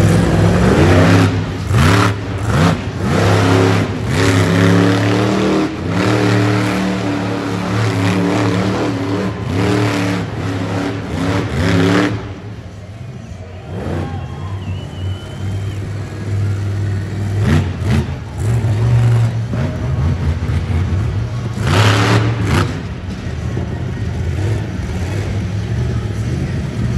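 Monster truck engine revving hard in repeated surges, loudest through the first twelve seconds, then lower with two more bursts of revving later on.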